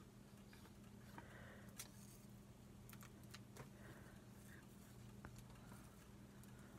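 Near silence: a faint steady hum with scattered soft ticks and light rustles from paper and postage stamps being handled.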